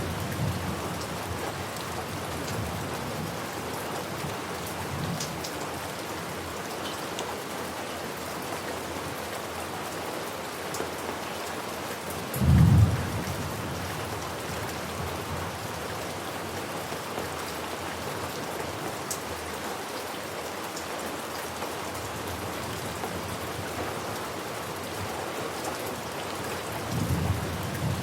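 Steady rain with rolls of thunder: a low rumble at the start, a louder one about twelve seconds in, and another near the end.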